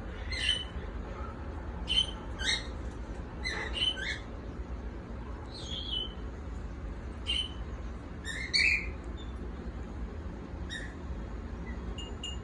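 Pet cockatiels chirping: short single calls, about a dozen scattered through the stretch, over a low steady hum.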